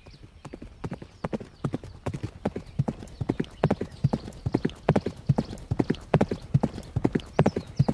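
Clip-clop of horse hooves at a walk: a steady rhythm of knocks, about three a second, that fades in over the first second.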